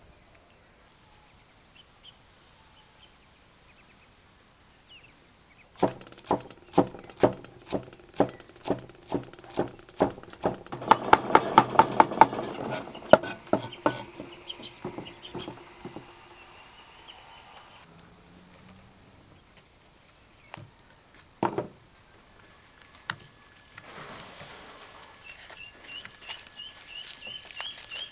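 A run of sharp, ringing knocks, about two a second and then quicker, over a steady high insect buzz, with two lone knocks later. Near the end a bird chirps again and again in short rising notes.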